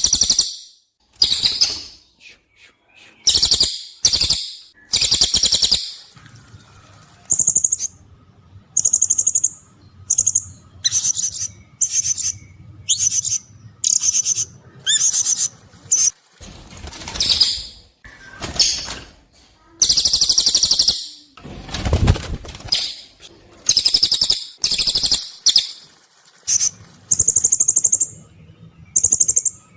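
Recorded birdsong of a cililin and a blue-crowned hanging parrot (serindit) for bird training. Sharp, very high-pitched calls come in quick bursts about every half second to a second, some as fast buzzy trills. About two-thirds of the way in there is one deeper, fuller burst.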